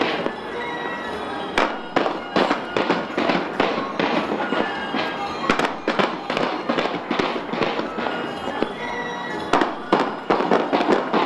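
Fireworks display: a rapid string of sharp bangs over a constant crackle, thickest about two to three seconds in and again near the end.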